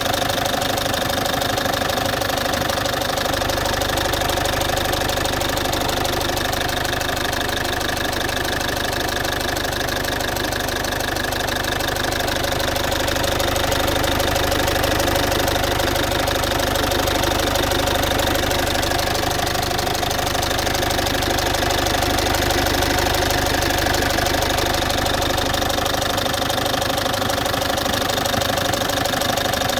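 Citroën C5's 2.0 HDi four-cylinder turbodiesel idling steadily, too loud, with a ticking sound running through it. The owner suspects the tick comes from around the fuel injectors but is not sure.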